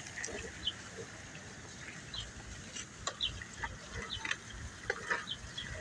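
Small birds chirping in short, scattered notes over a low, steady background rumble.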